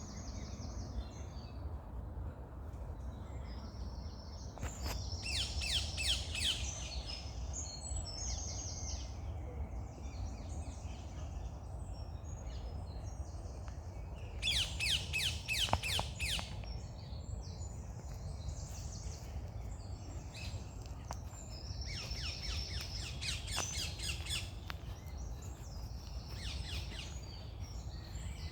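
Several birds singing and calling, with three louder bursts of fast trilled notes about five, fifteen and twenty-three seconds in, over a steady low rumble.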